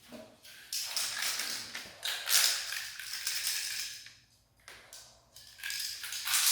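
Aerosol can of 2K clear coat spraying in several hissing bursts of a second or two each, with short pauses between passes.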